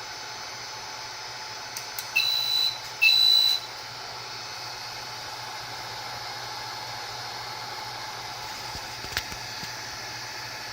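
Two short electronic beeps about a second apart, each a steady high tone, over a steady hiss of air, with a single click near the end. This fits a BGA/hot-air rework station used to replace a graphics chip.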